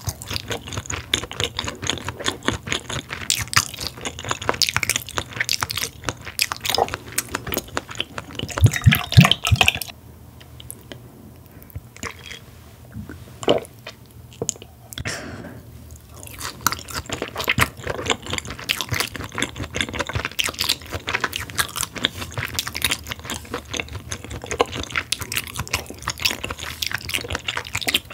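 Close-miked chewing and mouth sounds of someone eating raw hanwoo beef: dense smacks and clicks with a louder burst about nine seconds in. The sounds go quiet for about six seconds, then the chewing starts again.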